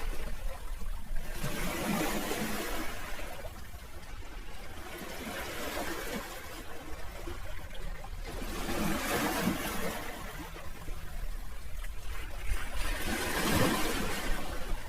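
Sea waves washing onto the shore, the surf swelling and falling back about every four seconds.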